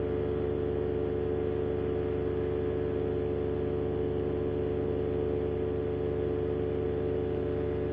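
Moster 185 single-cylinder two-stroke paramotor engine and propeller running at steady cruise power, a constant droning hum. The propeller sounds rough, and the pilot suspects an out-of-balance prop or repaired blade tips that have come off again.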